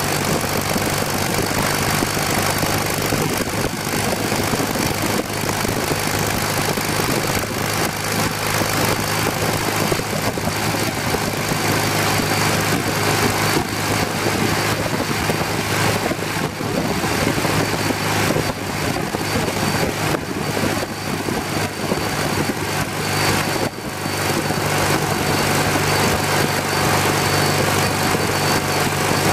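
1981 BMW R65's air-cooled flat-twin boxer engine running steadily at cruising speed, with heavy wind noise on the bike-mounted microphone.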